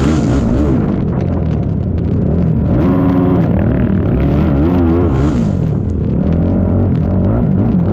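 ATV engine running hard, its pitch rising and falling again and again as the throttle opens and closes, over a steady low rumble.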